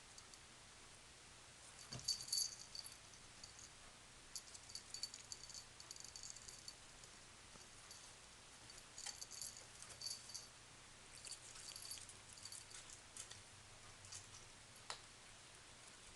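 Faint, high, light rattling in short irregular spells, with a soft knock about two seconds in.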